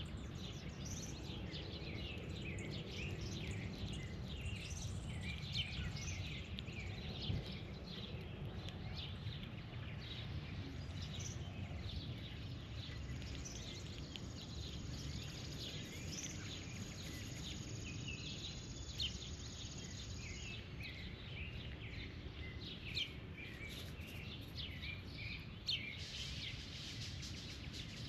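Birds chirping steadily in short, overlapping calls over a constant low background rumble. A thin, steady high whine runs for about seven seconds in the middle, and a few light taps stand out.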